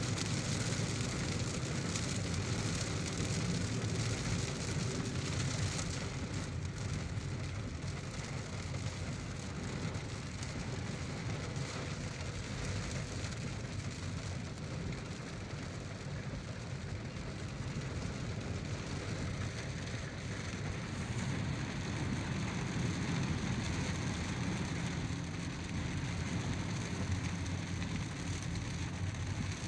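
Steady heavy rain, heard together with the low, even road and engine noise of a moving car.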